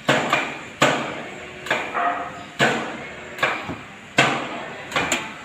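Hammer blows on metal, about seven heavy strikes a little under a second apart with lighter taps between, each ringing briefly.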